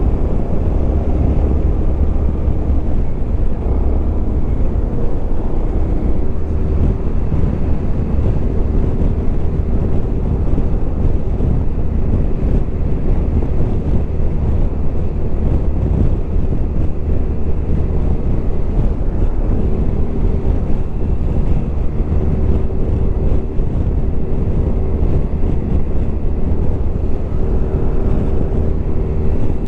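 Suzuki Burgman 400 ABS scooter's single-cylinder engine and exhaust running steadily at expressway speed, mixed with heavy wind noise on the microphone.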